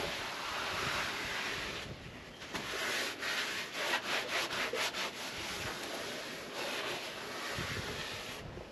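Cloth rubbing and scrubbing over the dashboard of a semi-truck cab, wiping off years of grime, with a run of quick back-and-forth strokes, about four a second, in the middle.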